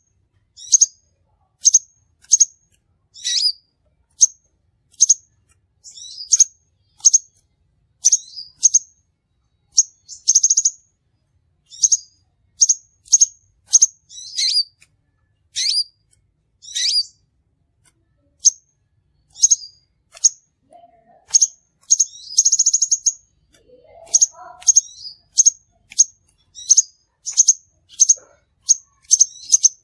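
Crimson sunbird calling: short, sharp, high-pitched chips repeated about once or twice a second, broken twice by a longer buzzy trill.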